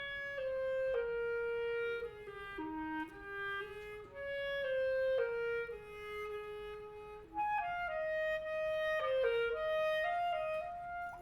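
Clarinet playing a slow, legato melodic phrase of sustained notes that step up and down in pitch.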